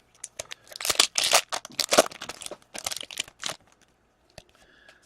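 Foil trading-card pack wrapper crinkling and tearing as a pack is ripped open and handled, loudest between about one and three and a half seconds in.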